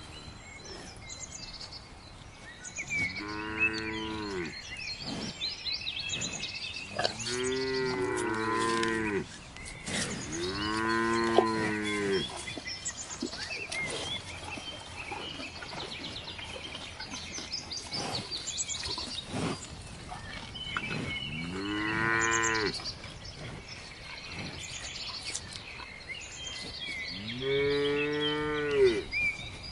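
Cows mooing: about five long, drawn-out moos with gaps between them, two of them overlapping from different cows.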